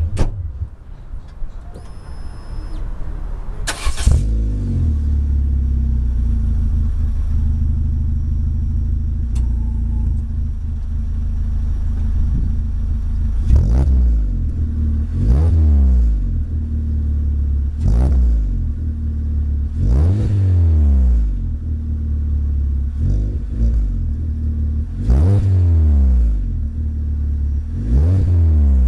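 Citroen C3 1.6 four-cylinder engine through an aftermarket Ulter exhaust, starting about four seconds in and settling to a steady idle. From about halfway through, it is revved in a series of short throttle blips, roughly one every two seconds, each rising and falling back to idle.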